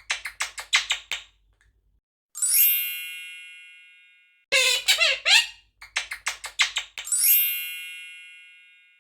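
Quaker parrot squeaking and chattering in short high phrases. Each phrase is followed by a bell-like ding that rings out and fades over about two seconds, and the pattern comes twice.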